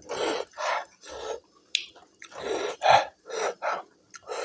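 A person eating very spicy food breathes sharply in and out through the mouth in quick short puffs, about two a second, from the burn of king chilli.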